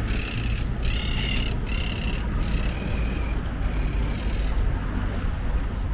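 Several high-pitched squawking bird calls, each under a second long and coming in separate bouts, over a steady low rumble.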